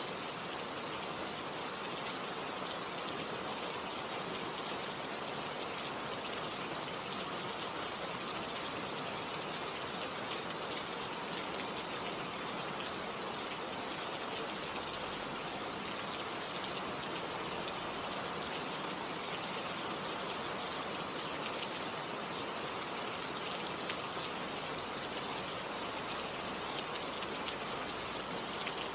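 Steady rain falling, a dense even hiss of drops with fine patter.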